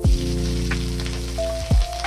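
Sliced onions and green chillies hitting hot oil in a metal wok, setting off a steady sizzle as they fry. Background music with deep drum thumps plays over it.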